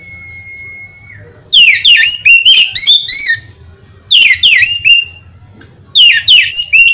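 Oriental magpie-robin (kacer) singing: a long, steady whistled note, then three loud bursts of quick, downward-sweeping whistled notes.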